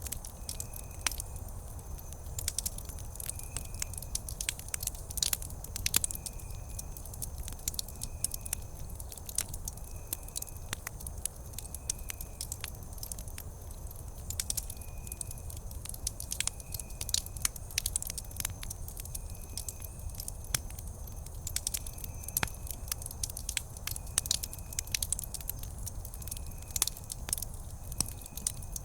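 Wood campfire crackling, with sharp snaps scattered irregularly over a low steady rumble. A faint short high chirp repeats about every second and a half.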